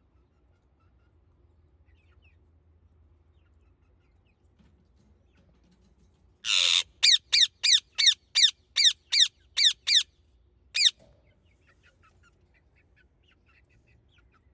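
Indian ringneck parakeet screeching. Almost halfway through there is one harsh squawk, then a fast run of about ten short, sharp shrieks, each falling in pitch, about three a second. A last shriek follows a moment later.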